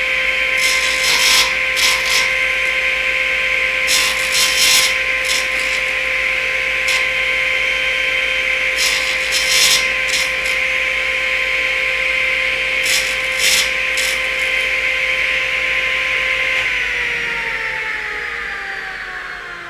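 Table saw running with a steady whine while its blade cuts walnut in several short, loud bursts. About 17 s in the saw is switched off and its pitch falls as the blade winds down.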